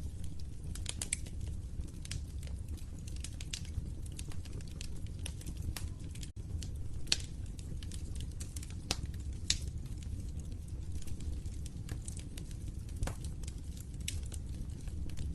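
Wood fire in a fireplace crackling: irregular sharp pops and snaps over the low, steady rumble of the flames, with a momentary dropout about six seconds in.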